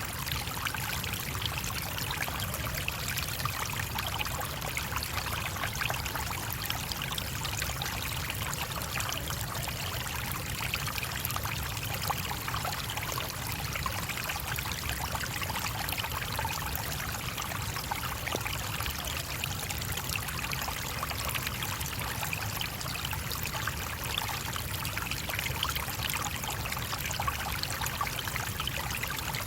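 Small stream flowing over stones, a steady rush of running water with fine splashing and trickling.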